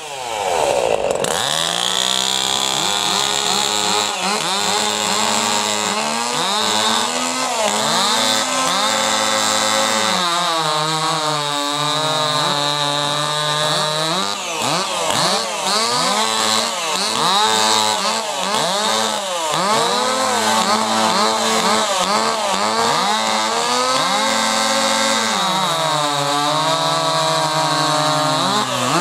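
Small two-stroke chainsaws running at full throttle while cutting through a log, their engine pitch repeatedly sagging under load and recovering.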